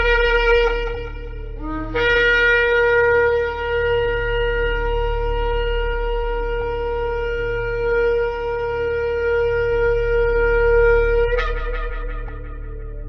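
Shofar (ram's horn) blasts. One blast ends about a second and a half in, and a new one starts with a short rising attack and is held as one long steady tone for about nine seconds. It breaks upward near the end and fades out, over a low steady hum.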